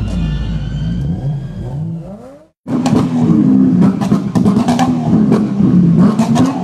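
Car engine revved hard over and over, its pitch rising and falling, with sharp exhaust pops and bangs. The sound cuts out abruptly about two and a half seconds in, then the revving and a rapid run of pops resume.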